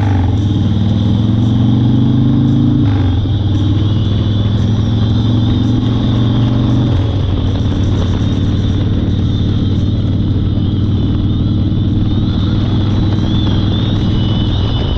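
1992 Harley-Davidson Fat Boy's Evolution V-twin engine under way. Its pitch climbs, drops at an upshift about 3 seconds in, changes again about 7 seconds in, then holds steady at cruise.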